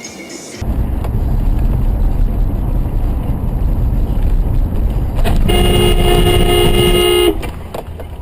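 Loud low road and engine rumble of traffic that starts abruptly, with a car horn sounding one long blast of about two seconds past the middle.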